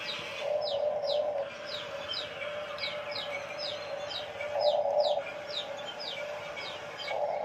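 A bird repeating short falling chirps about twice a second, over the steady whine of a remote-control toy excavator's electric motors, which swells in three short stretches as the arm works.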